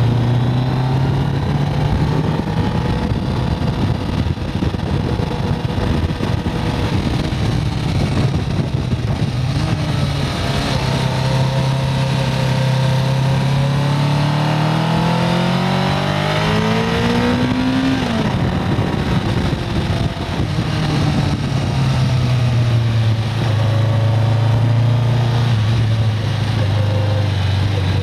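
1995 Kawasaki Concours's inline-four engine pulling the bike uphill, with wind noise on the microphone. The engine note holds steady, rises for several seconds past the middle, then drops suddenly and settles back to a steady pull.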